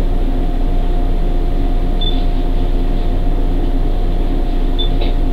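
Steady hum of an electric train standing at a station: a low drone with a constant mid-pitched tone. Two brief high chirps sound about two seconds in and near the end.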